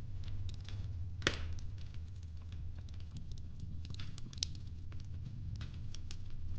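Fireplace crackling: scattered small clicks and pops over a steady low rumble, with one louder pop about a second in.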